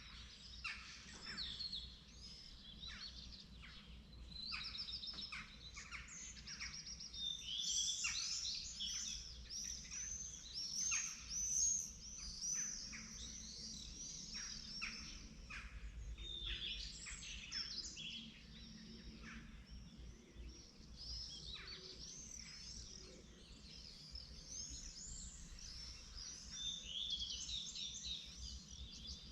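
Dawn chorus of several songbirds: many overlapping short chirps and trills, busiest a quarter of the way in and again near the end, over a faint steady low rumble.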